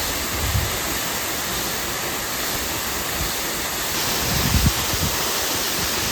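Steady rush of flowing water, with brief low thumps of wind on the microphone about half a second in and again around four and a half seconds in; the hiss grows a little brighter about four seconds in.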